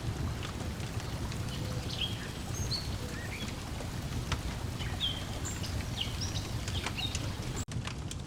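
Layered lakeside ambience: a steady low wash of water lapping at the shore, a wood fire crackling with scattered short snaps, and small birds chirping in quick short calls. The sound drops out for an instant near the end.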